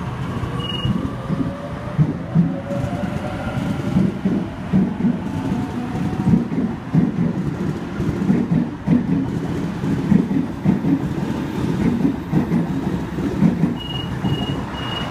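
Waratah A-set electric train pulling out. Its traction motors whine, rising in pitch over the first several seconds, while the wheels rumble and clack over the rails throughout. A short high beep sounds near the start, and a run of evenly spaced high beeps comes near the end.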